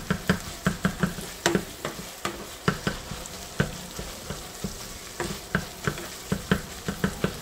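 Ground meat and onions sizzling in a nonstick pan, stirred and scraped with a silicone spatula that scrapes and taps against the pan in irregular strokes a couple of times a second.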